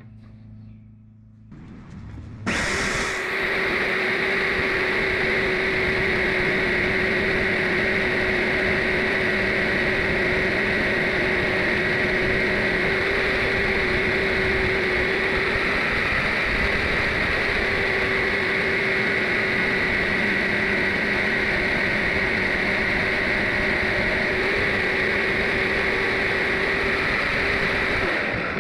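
Power saw motor switched on about two and a half seconds in, running steadily while it cuts through brass hex bar stock, then stopping abruptly near the end.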